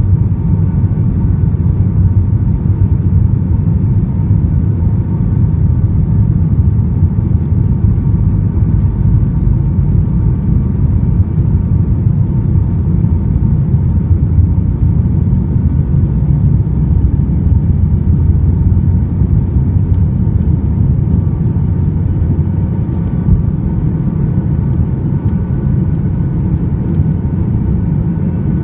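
Cabin noise of a Boeing 737 MAX 8 airliner heard from a window seat: its CFM LEAP-1B engines and the airflow make a loud, steady low rumble with a few faint steady tones above it.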